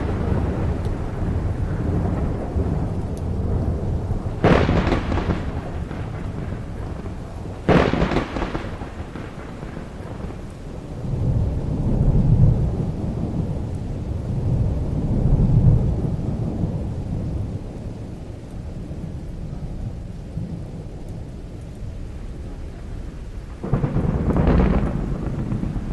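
Thunderstorm: steady rain with sharp thunderclaps about four and a half and eight seconds in, low rolling rumbles in between, and another loud clap near the end.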